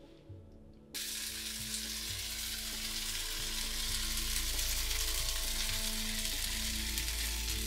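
Breakfast sandwiches frying in a nonstick skillet on a gas stove: a steady sizzle that starts abruptly about a second in.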